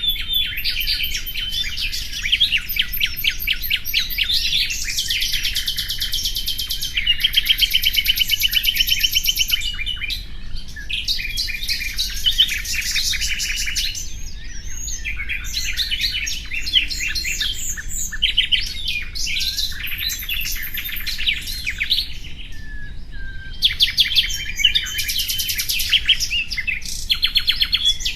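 Nightingale singing: phrases of fast repeated notes and rattling trills, one after another, with brief pauses between some phrases.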